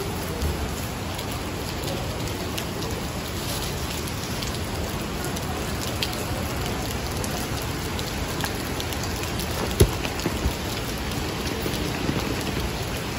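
Heavy rain falling steadily, a dense even hiss with scattered sharp drip ticks and one louder tap about ten seconds in.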